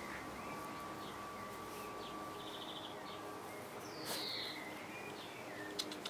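Birds calling in the background: short high chirps and a pulsed trill, with a falling whistled note at the start and again about four seconds in. A thin steady high tone runs underneath and fades out about halfway.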